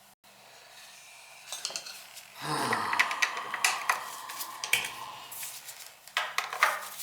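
Metal clinking and rattling as parts of an oil burner are handled, with a louder scraping rush and a run of sharp clicks starting about two and a half seconds in.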